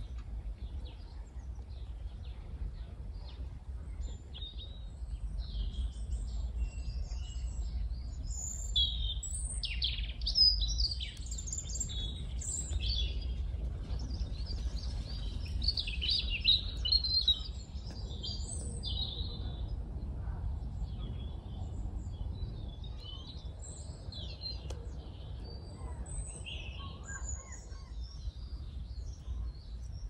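Garden birds singing and chirping, several at once, busiest through the middle stretch, over a steady low rumble.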